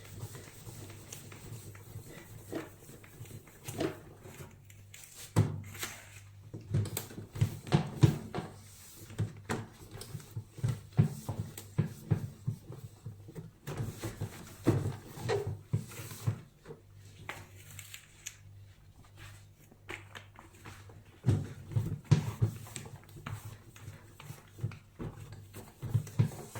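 A fibre cleaning cloth being rubbed over a microwave's front door, with irregular knocks and low thumps from the door and the cleaner's hand as he works.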